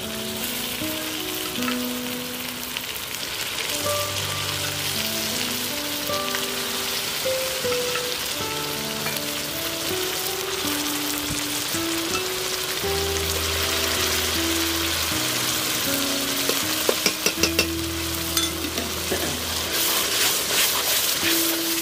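Cooked saag (mustard greens) sizzling as it hits a hot ghee tempering of onion, ginger and tomato in a steel kadhai, stirred with a steel ladle. The ladle clicks and scrapes against the pan, most of all in the last few seconds. Quiet background music with a slow melody plays underneath.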